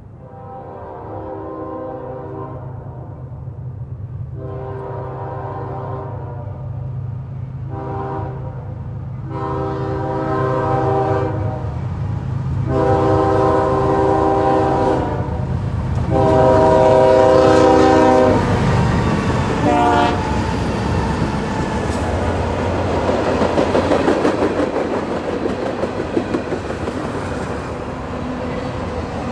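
Air horn of a CSX GE ES40DC diesel locomotive leading a freight train, sounding a run of seven chords, mostly long with two short ones, over the engine's steady drone. Then the locomotive passes and the freight cars roll by with a rumble and clickety-clack of wheels on rail joints.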